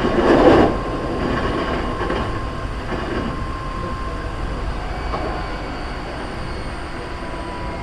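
Running noise of a Hankyu 3300 series commuter train heard inside the passenger car: a steady rumble with a faint constant tone. A short, loud clatter comes right at the start.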